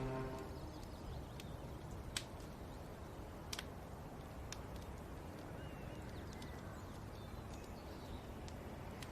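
Faint outdoor ambience: a low steady hiss with a few faint bird chirps and occasional sharp clicks. Background music fades out at the start.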